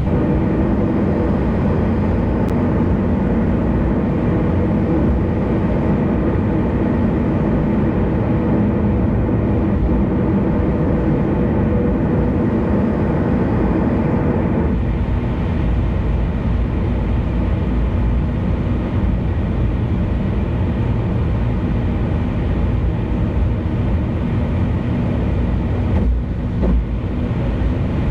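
Steady road and engine noise of a car cruising on an expressway, a loud continuous low rumble. Its tone shifts slightly about halfway through, and there is a brief dip near the end.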